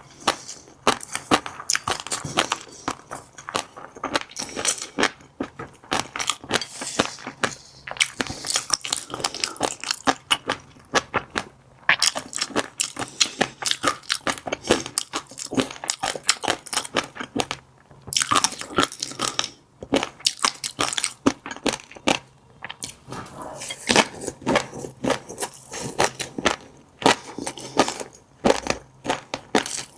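Close-miked chewing of fish roe: the eggs pop and crunch between the teeth in dense, rapid clicks, broken by a few brief pauses between mouthfuls.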